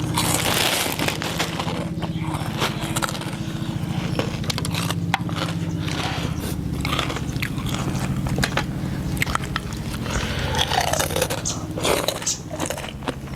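People chewing and biting through a meal of pork noodle soup, with many short crisp clicks and crunches. A steady low hum runs underneath.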